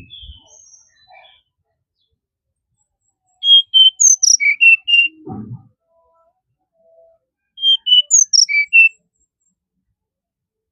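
Brown-chested jungle flycatcher singing: two short phrases of clear, whistled notes, the first about three and a half seconds in and the second about seven and a half seconds in. A brief dull thump comes between them.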